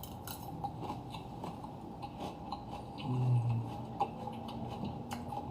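Quiet eating sounds: chewing, with scattered small clicks of cutlery against a plate, and a brief low hum about three seconds in.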